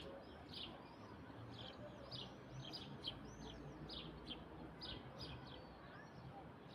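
Small birds chirping: short, high, arched chirps repeated two to three times a second, faint against a low background hiss.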